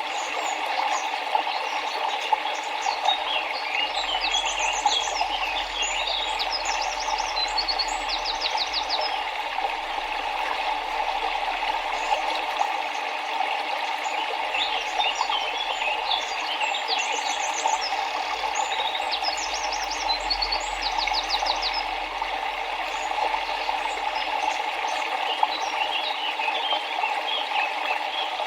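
Steady rush of a river or stream, with birds chirping over it in two bouts of quick high chirps and trills, the first in the first third and the second near the middle.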